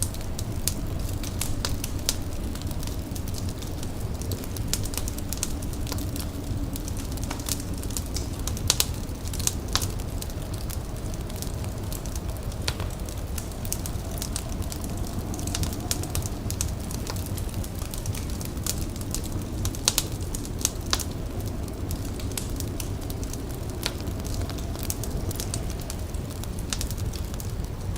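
Indoor fire crackling, with irregular sharp pops and snaps over a steady low rumble and faint wavering tones in the background.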